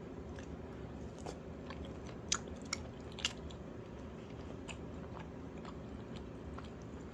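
A person chewing a mouthful of sundae (Korean blood sausage) dipped in tteokbokki sauce: soft, wet mouth clicks, with three sharper clicks a little over two seconds in, over a steady low hum.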